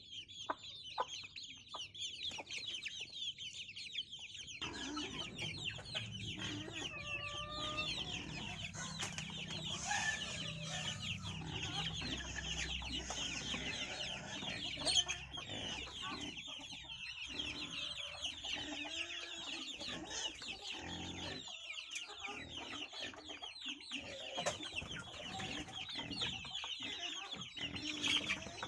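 A flock of chickens calling: a dense, continuous chatter of many overlapping high-pitched cheeps. A low rumble joins about four seconds in and dies away past the middle.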